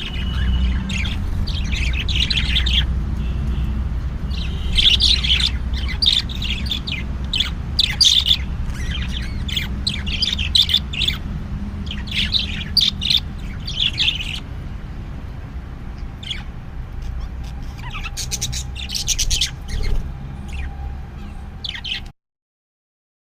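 Small birds chirping in repeated flurries of quick, high notes over a steady low rumble; the sound cuts off suddenly about 22 seconds in.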